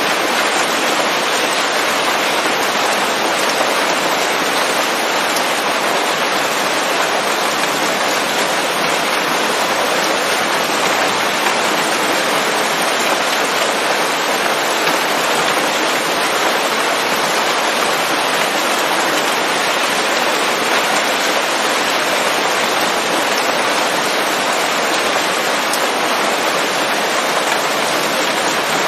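Steady rain falling on leaves, a dense even patter with no single drops standing out.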